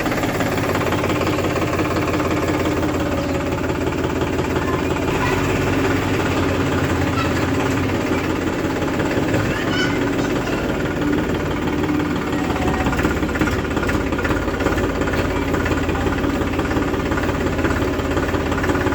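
Diesel engine running steadily, with a knocking, chugging beat.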